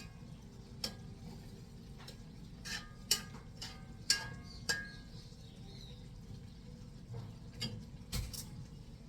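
Kitchen pots and utensils clinking and knocking: about nine sharp metallic clinks, several with a short ring, clustered in the middle and again near the end, over a low steady background hum.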